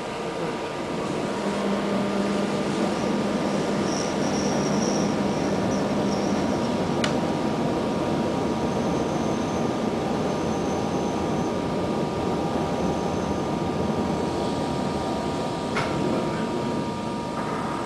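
Steady running noise inside a moving EN57 electric multiple unit, the rumble of the car rolling on the rails. A low hum sounds for the first few seconds, and there are two sharp clicks, one about seven seconds in and one near the end.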